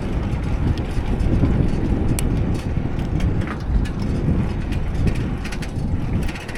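Wind rumbling on the microphone of a camera riding along on a moving bicycle, with a few faint clicks.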